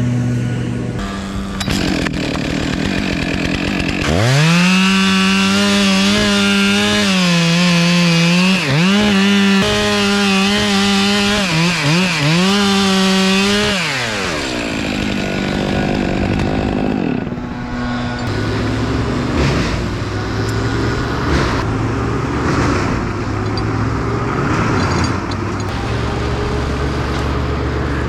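Chainsaw revved to full throttle about four seconds in and cutting wood for about ten seconds, its pitch dipping several times as the chain bogs down in the cut, then falling away. Before and after the cut, a lower, steady engine drone runs underneath.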